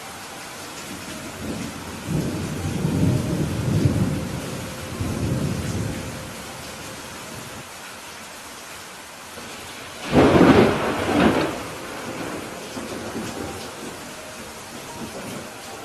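Steady rain with thunder: a low rolling rumble starts about two seconds in and lasts around four seconds, then a sharper, louder thunderclap about ten seconds in.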